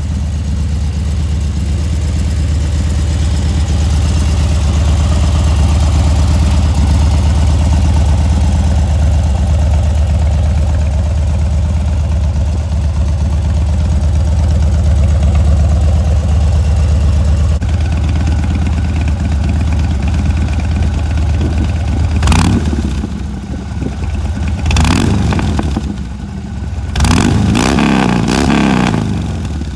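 2015 Harley-Davidson Dyna Street Bob's V-twin engine idling steadily, then revved with three blips of the throttle near the end, the last one held longest.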